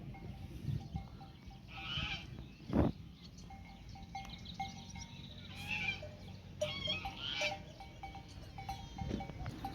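A grazing flock's neck bells clinking on and off, with a few bleats from the animals. There is a short loud thump about three seconds in.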